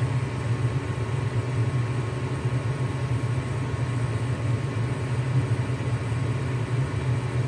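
Lennox gas furnace running steadily on a heating call: a smooth, even low hum from its motors, with the newly replaced inducer fan motor running quietly and sounding good.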